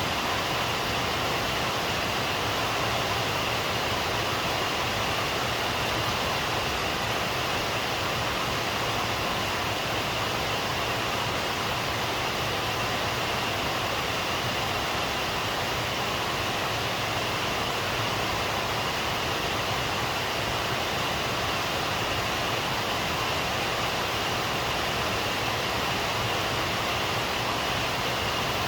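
Heavy rain falling steadily, an even hiss with no letting up or thunder.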